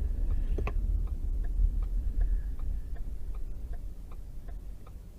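A car's turn-signal or hazard-light relay clicking steadily inside the cabin, about three ticks a second, over low road and engine rumble that fades as the car slows to a stop.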